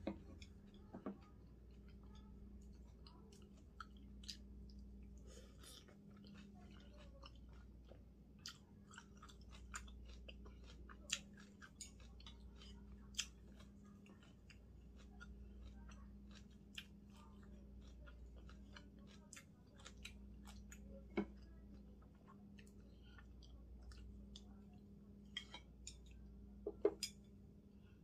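Faint close-miked eating: chewing and mouth smacks, with scattered sharp clicks as wooden chopsticks pick food from the dishes, over a faint steady hum.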